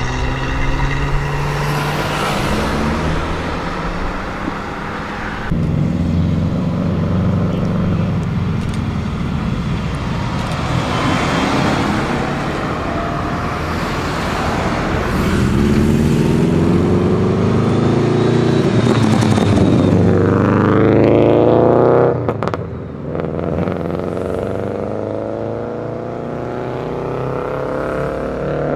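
Modified cars, among them old Volkswagen Golfs, pulling away one after another with their engines and exhausts accelerating and passing. The loudest is a long rev climbing in pitch that cuts off sharply about 22 seconds in, and another car starts revving up near the end.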